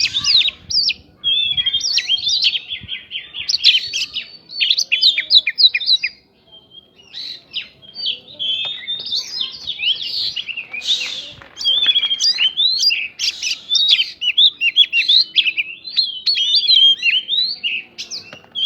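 Oriental magpie-robin (kacer) singing a fast, varied song of whistles and chattering notes, with mimicked prinia (prinjak) calls in it. The song breaks off briefly about six seconds in, then carries on.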